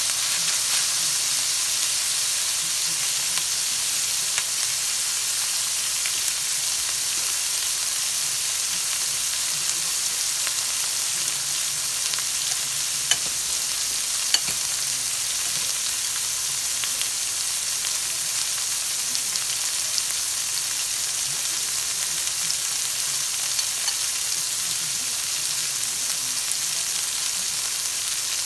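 Cut asparagus sizzling steadily in a hot wok. A wooden spatula stirs it at the start, then it is left to fry, with a few faint ticks.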